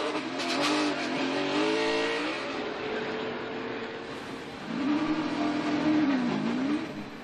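NASCAR stock car V8 engines at racing speed. One rises in pitch as it accelerates over the first two seconds, and another swells and dips in pitch about five seconds in.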